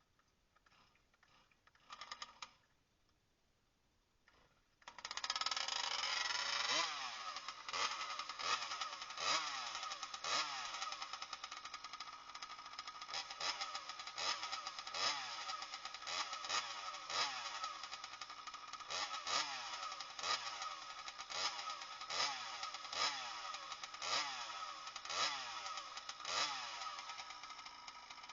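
Small scooter engine fitted with a CPI racing exhaust pipe, starting about five seconds in after a brief sound near two seconds. It is then revved in short throttle blips about once a second, each rise dropping back between blips.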